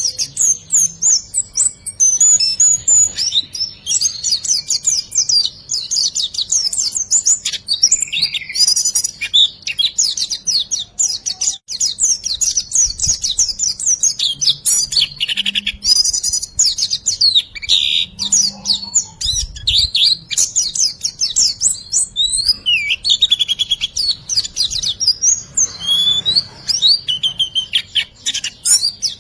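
White-eye (pleci) singing a continuous 'riwikan' song: a fast, unbroken stream of high twittering chirps and short trills.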